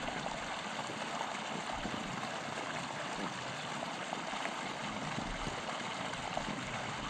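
Water running in a steady, even flow.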